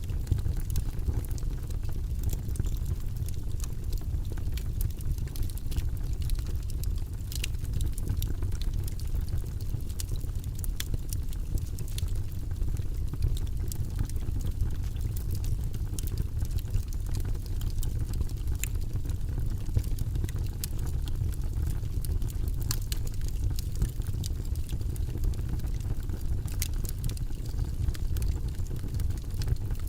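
Wood logs burning in a fireplace: a steady low flame noise with frequent scattered sharp crackles and pops.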